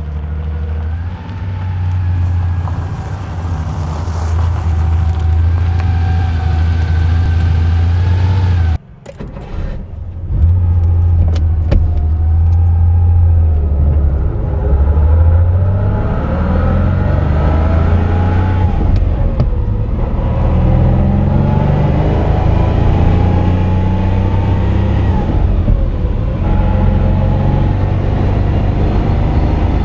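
The air-cooled flat-six engine of a 1965 Porsche 911 running as the car drives, heard first from outside and then from inside the cabin. The sound drops away briefly about nine seconds in. Later the pitch climbs under acceleration and falls back twice at gear changes.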